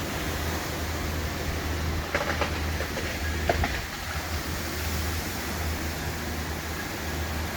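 Strong thunderstorm wind rushing steadily with a low rumble, with a few short sharp cracks about two seconds in and again about three and a half seconds in.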